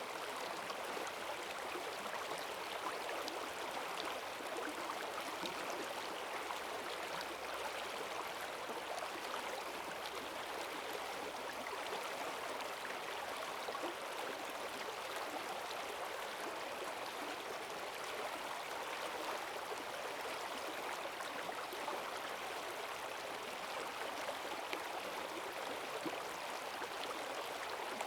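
Forest stream running high after heavy rain: a steady rushing of strong current.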